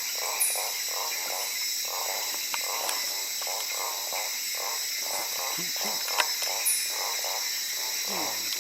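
Rainforest insect and frog chorus: a steady high-pitched buzzing overlaid with a fast, regular pulsed call repeating about three times a second. There is one sharp click about six seconds in.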